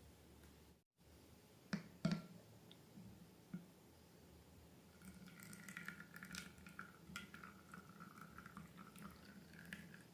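Faint wet squishing and crackling of slime being worked by hand, with many small sticky clicks, starting about halfway through. It follows two sharp clicks near the start.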